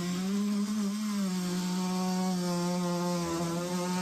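Power saw running steadily as it cuts through a soil stack pipe, its motor pitch dipping slightly just over a second in as the blade takes load.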